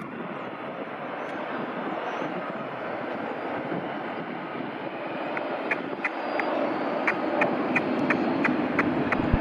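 Steady jet engine noise from a WestJet Boeing 737-800's CFM56 turbofans passing the airport. From about five seconds in, a regular series of sharp high ticks, about three a second, runs over it.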